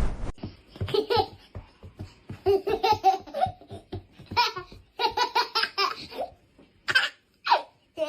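A person laughing in several fits of quick, short bursts with pauses between them.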